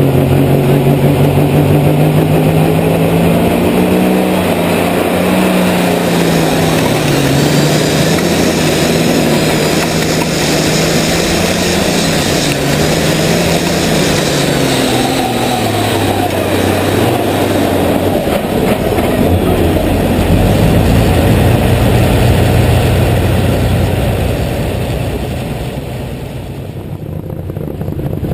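Light super stock pulling tractor engine running at high power under load, its pitch rising and falling. About two-thirds of the way through the pitch falls away, leaving a loud rushing rumble that eases briefly near the end.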